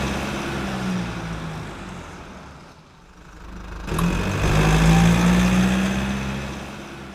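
A motor vehicle engine running at a steady pitch, swelling twice: the first swell fades out about three seconds in, and the second rises with a click about four seconds in, then fades toward the end.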